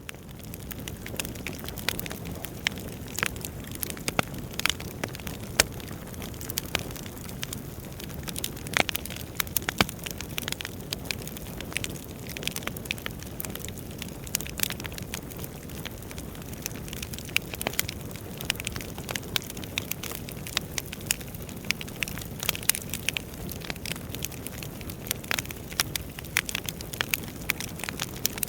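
Wood fire burning in a fireplace, crackling with many irregular sharp snaps and pops over a steady low hiss of the flames.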